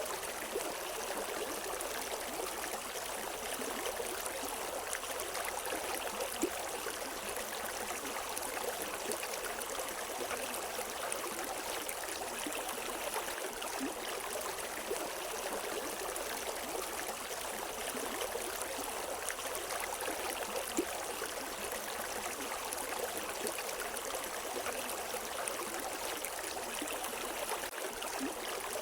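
River water running steadily over rocks, an even rushing with small splashes and gurgles throughout, with no birds.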